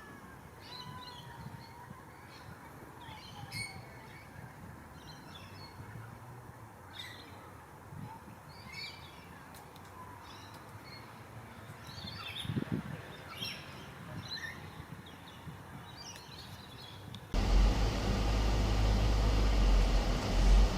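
Birds chirping and calling in open parkland over a faint outdoor hiss, with short high chirps scattered throughout. Near the end the sound cuts abruptly to a louder, steady low rumble.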